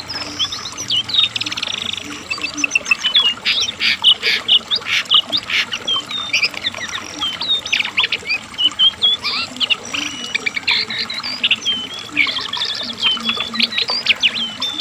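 Brown cingcoang (jongkangan) singing a fast, unbroken song of varied chirps, quick trills and short whistled notes.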